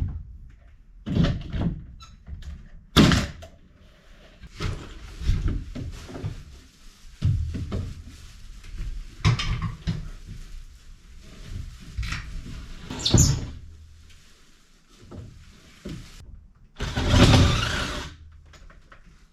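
Irregular knocks, thuds and handling noises of building work, a dozen or so separate impacts of varying loudness, with one longer noisy sound lasting about a second near the end.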